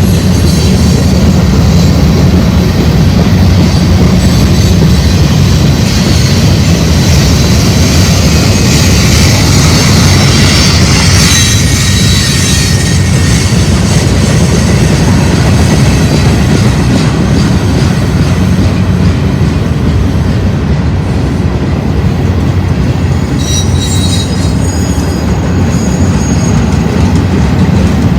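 Freight train cars rolling past close by: a steady heavy rumble and rattle of wheels on rail. High-pitched wheel squeal rises twice, about a third of the way in and again near the end.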